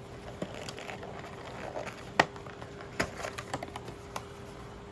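Trading-card packs and boxes being handled on a tabletop: two sharp knocks about two and three seconds in, then a run of lighter clicks and taps.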